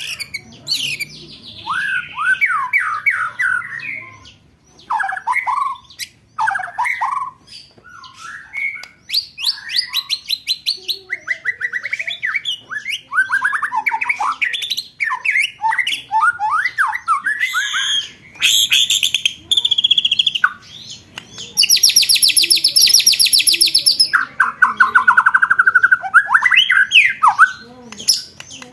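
Recorded songbird calls of competition-bird training material: rapid rolling trills and quick sweeping phrases, one after another with hardly a gap. About three-quarters of the way through comes a loud, very high, fast rattling chatter lasting a couple of seconds.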